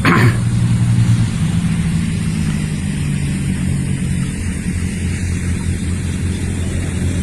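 A vehicle engine running steadily at an even, low pitch, with a brief rushing burst at the very start.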